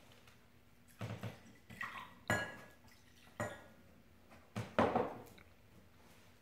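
Hard containers being handled and set down: a series of clinks and knocks, the loudest a little over two seconds in with a brief ring.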